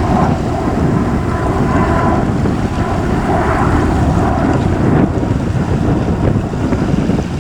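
Boeing 737 MAX 8's CFM LEAP-1B turbofans at takeoff thrust: a loud, steady jet roar as the airliner departs, with wind rumbling on the microphone.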